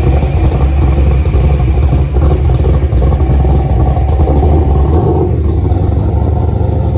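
A motor vehicle engine running close by: a loud, steady low rumble.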